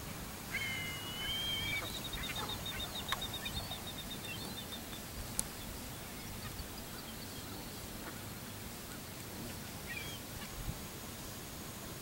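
A bird calling over a steady background hiss: a drawn-out, slightly rising note about half a second in runs straight into a fast series of short high notes that fades out a few seconds later, and a short call comes again near the end. Two sharp clicks a few seconds in.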